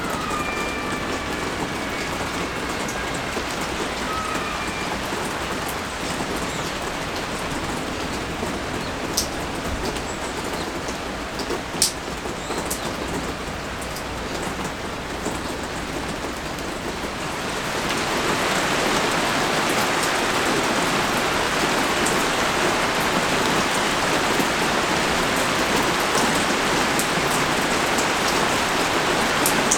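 Rain falling, with a few sharp drip ticks, that turns into a heavy downpour about eighteen seconds in, louder and fuller from then on.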